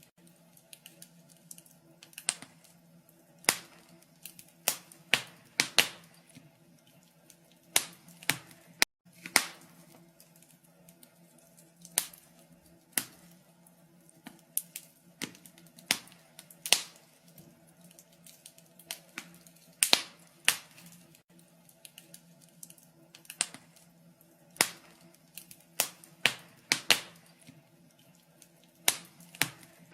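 Wood fire crackling in a fireplace: irregular sharp pops and snaps, about one or two a second, over a faint steady hum.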